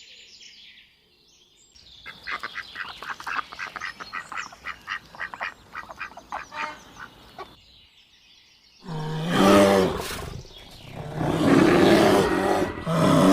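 Pigs grunting and squealing: a quick run of short calls, then after a brief pause two louder, longer calls.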